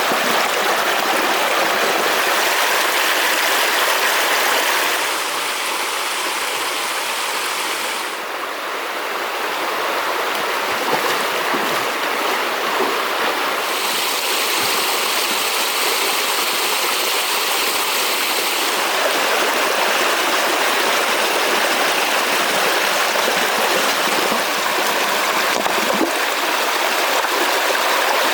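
River water rushing steadily, a continuous hiss that shifts in tone a few times and dips slightly about eight seconds in.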